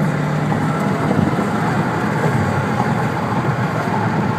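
Cabin noise of a moving car, the turbocharged 1.4-litre MultiAir four-cylinder of a 2013 Dodge Dart: a steady low engine hum under tyre and road noise.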